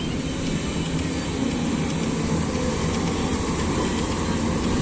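Excavator's diesel engine running steadily under work, a low, even drone.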